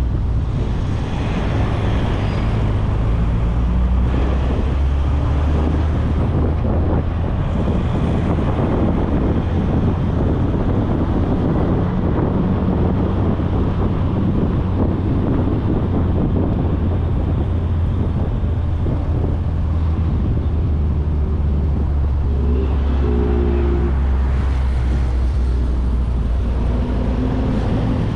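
A 1994 VW Gol's 1.6 L CHT engine and its tyres heard from an externally mounted camera at highway speed: a steady low rumble of road noise and engine with wind on the microphone. A brief hum joins about two-thirds of the way through.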